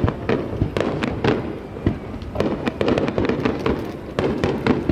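Aerial firework shells bursting in a rapid barrage during a fireworks finale, many sharp bangs a second with a rolling rumble of echoes between them.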